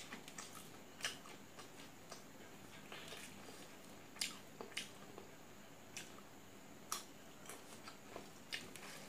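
Quiet eating sounds of a person chewing a mouthful of rice and curry, with sharp clicks about once a second.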